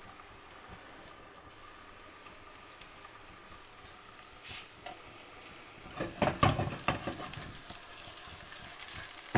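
Chicken kebabs frying in a pan of oil: a low, steady sizzle, with a few louder knocks and sizzles about six seconds in.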